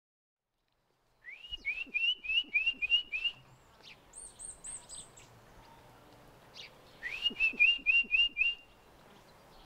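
Small songbirds singing. A quick run of about seven short whistled notes, each sliding up, is heard about a second and a half in and again about seven seconds in. Between the two runs comes a short series of four much higher, thinner notes.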